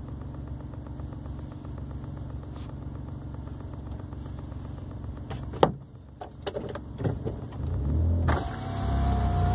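VW up! TSI's turbocharged three-cylinder engine running steadily at low revs, heard from inside the car. About five and a half seconds in there is one sharp, brief sound, then a few clicks, and near the end the revs rise as the car accelerates.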